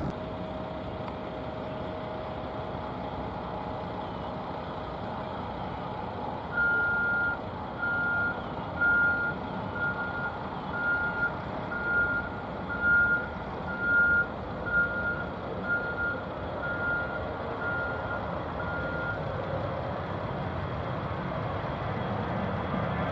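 A vehicle's reversing alarm beeps a steady single tone about once a second, starting about six seconds in and stopping near the end, over a steady rumble of background traffic.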